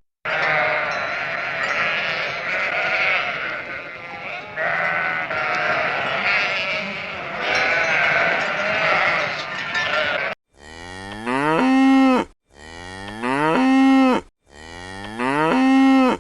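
A flock of animals bleating, many calls overlapping for about ten seconds. Then it cuts to a cow mooing three times, the same call repeated about every two seconds, each rising in pitch and then held.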